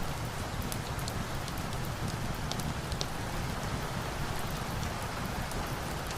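Steady rain pouring down, layered with a few sharp crackles from a log fire.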